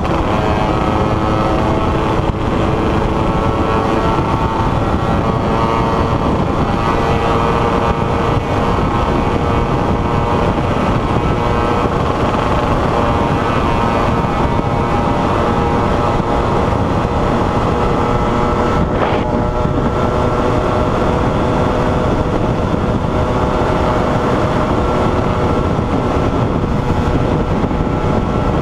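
Yamaha RD135 two-stroke single-cylinder motorcycle engine running at a steady cruising speed, its pitch holding nearly even, heard from the rider's seat with wind noise on the microphone.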